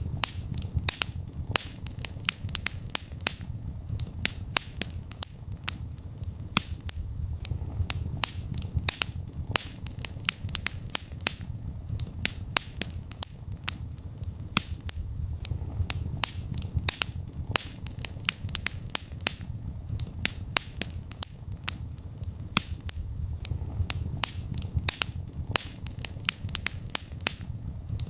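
Wood fire burning in a fireplace: dense, irregular crackling and sharp pops, several a second, over a steady low rumble of the flames.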